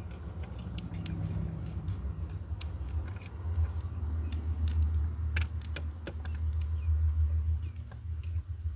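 Small scattered clicks and crackles of eggshell being picked by hand from a hatching quail egg, over a steady low rumble that is strongest in the middle.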